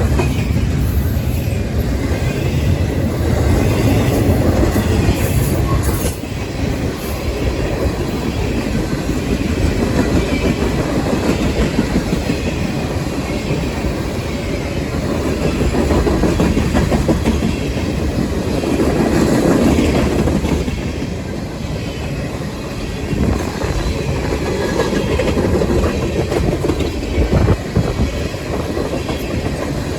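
A train rolling past on the rails with a steady rumble and wheels clicking over the rail joints. The deep rumble is heaviest for the first several seconds, then eases.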